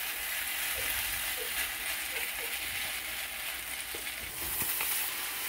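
Shrimp fried rice sizzling in a hot wok on a gas stove while being stirred with a wooden spatula: a steady hiss with a few soft taps.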